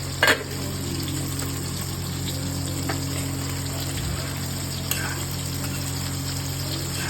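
Fish frying in oil, a steady fine sizzle over a constant low hum. A short sharp clatter comes just after the start, and a few light clicks follow later.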